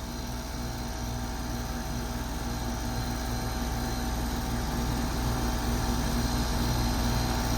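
2002 Tappan (Nordyne) 5-ton central air conditioner outdoor unit running: the compressor hums steadily under the even rush of the condenser fan.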